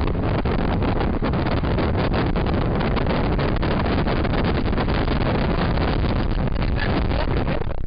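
Pickup truck driving at speed, its engine, road and wind noise heard from inside the cab, with many small knocks and rattles.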